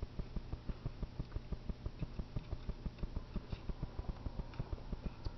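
Rapid, even soft thumps, about six or seven a second, from hands vigorously kneading a cat's body.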